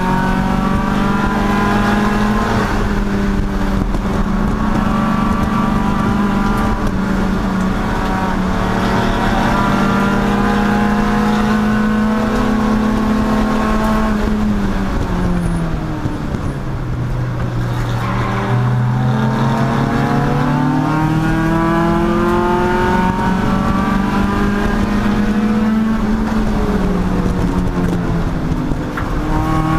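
Chump Car endurance race car's engine running hard at steady high revs. About halfway through the engine note drops sharply as the car slows, then climbs again under acceleration, with a shorter dip and rise near the end.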